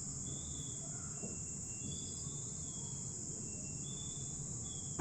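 Steady high-pitched background chirring of insects, with faint short higher chirps scattered through it.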